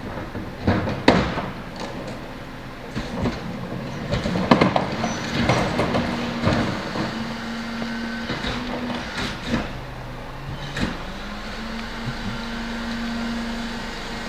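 Garbage truck running during trash collection, with a steady hum and a held tone that comes and goes, and a string of loud bangs and clatters as trash is handled and dumped, the sharpest about a second in and about four and a half seconds in.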